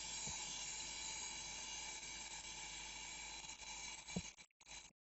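Faint steady hiss of a gas brazing torch's neutral flame heating a refrigerator compressor's process tube. About four seconds in, the hiss breaks up and cuts in and out, with a soft thump.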